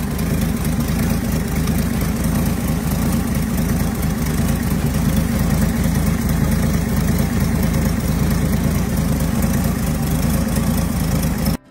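1975 Plymouth Scamp's slant-six engine idling steadily, heard close up in the open engine bay, its even firing pulses unchanged throughout. It starts and cuts off abruptly.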